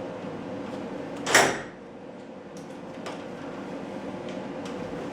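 A single loud clunk about a second and a half in, then a few light clicks, over a steady low hum.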